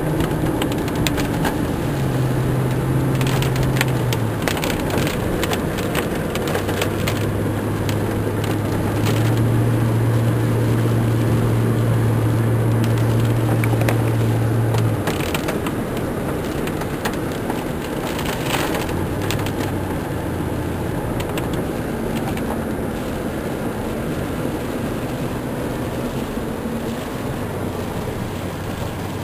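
A car driving, with steady road and engine noise and a low engine hum that changes pitch in a few steps. A few short clicks come through around the middle.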